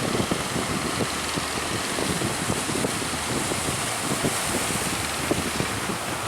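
Strong wind buffeting the microphone in gusty crackles over a steady rush of open sea, with a low steady engine hum underneath.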